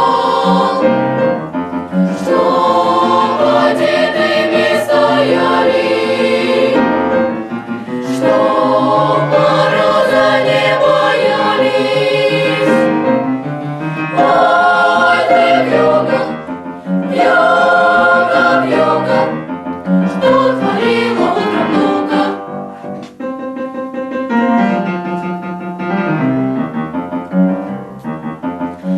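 Children's choir singing a song in several long phrases, with short pauses between them.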